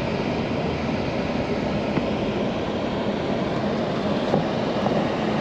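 Steady road and engine noise inside a moving car with a four-cylinder engine.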